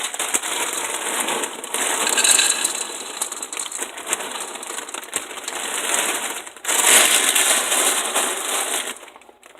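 Dry Apple Jacks cereal pouring into a bowl, a continuous rattling patter that swells again about seven seconds in and stops just before the end.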